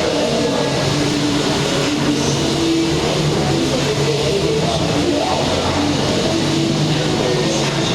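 Steady, loud background din of a busy market, with music playing through it.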